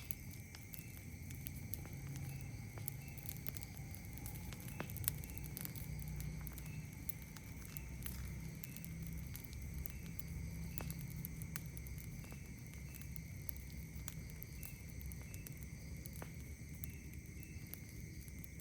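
Campfire crackling with scattered sharp pops over a low rumble of flame. Night insects keep up a steady high drone, with a short chirp repeating about twice a second.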